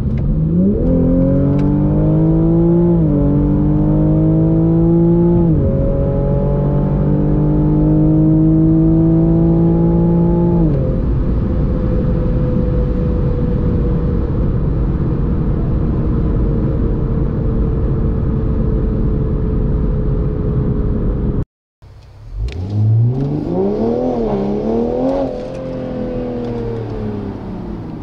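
Manhart-tuned Toyota Supra GR's turbocharged 3.0-litre straight-six at full throttle, heard from inside the cabin. The revs climb with two quick upshifts about 3 and 5.5 seconds in, keep rising to near 200 km/h, then the throttle comes off and the engine note settles to a steady, slowly falling cruise. After a sudden cut, the engine revs rise and fall twice at lower speed.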